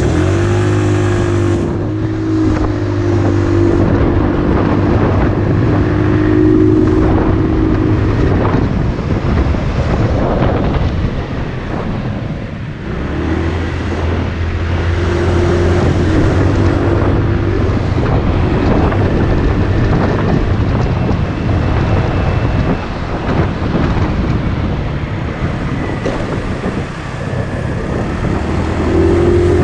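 Motorcycle engine running steadily while riding, with wind noise on the microphone. The engine tone fades under the wind noise a couple of times and comes back.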